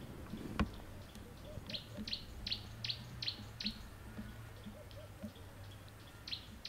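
A bird calling in runs of short, high, falling chirps, about two or three a second, over a steady low hum. A single sharp click comes about half a second in.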